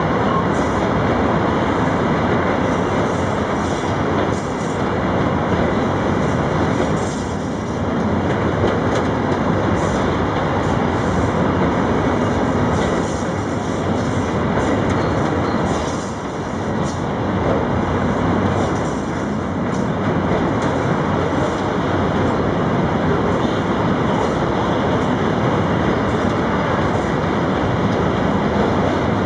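Freight train rolling past on the rails: a loud, steady rumble of wagons with wheel clatter.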